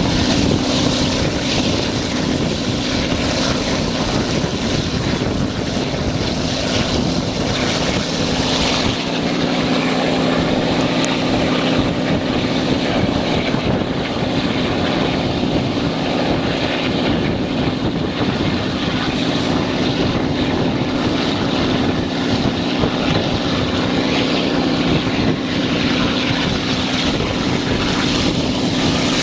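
Diesel-hauled passenger train running at speed, heard from an open window: a steady, loud rush of wheel-on-rail rumble and air, with a steady low hum underneath.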